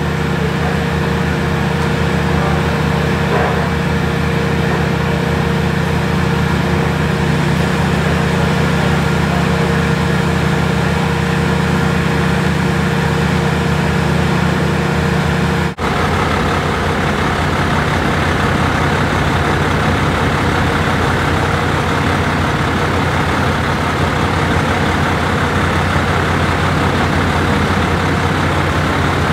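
A heavy engine running steadily at idle. It cuts out for an instant about halfway through and comes back with a slightly different tone.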